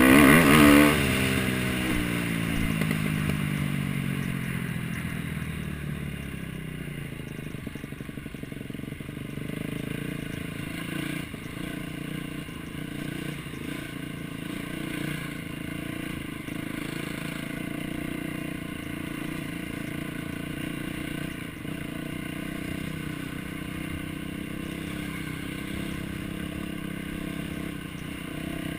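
Motocross bike engine loud and close near the start, its pitch falling over the next few seconds, then motocross engines running on at a steadier, lower level.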